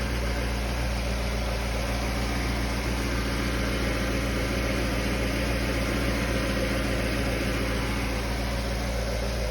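1997 Jaguar XK8's V8 engine idling steadily, still cold in its first minute after a cold start.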